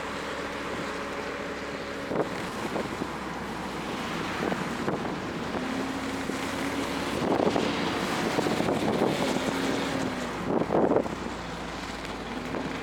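Toyota GR Corolla's turbocharged three-cylinder engine running at light, steady load under heavy wind and road noise buffeting the microphone, with a few brief louder gusts.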